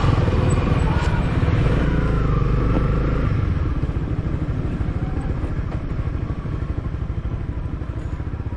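Motorcycle engine running under way, with a steady low rumble that is loudest for the first three seconds or so and then eases a little.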